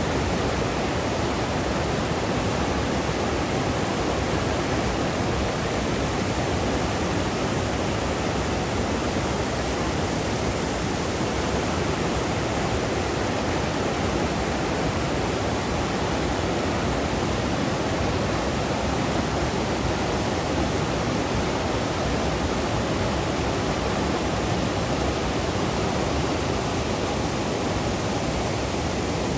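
A waterfall rushing: a steady, unbroken roar of falling water.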